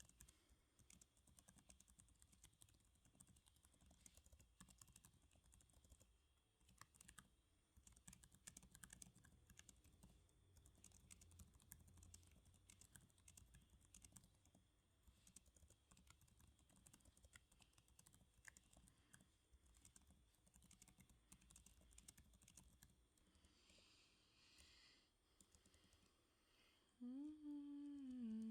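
Faint typing on a computer keyboard, a steady patter of soft key clicks. Near the end a woman starts humming a melody close to the microphone.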